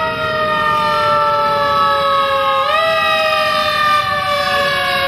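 Emergency vehicle siren wailing, its pitch sliding slowly down, rising quickly about two and a half seconds in, then sliding down again.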